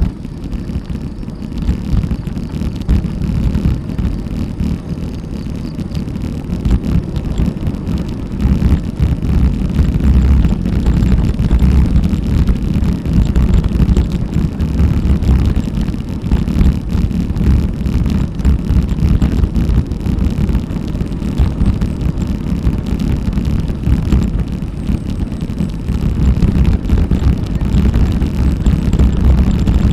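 Wind buffeting an action camera's microphone during a bicycle ride: a loud, continuous low rumble that swells and eases.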